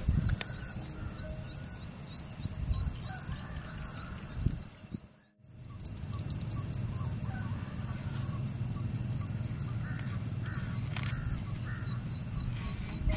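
Small birds chirping in quick repeated notes over a steady low rumble, with faint piano music; the sound drops out briefly about five seconds in.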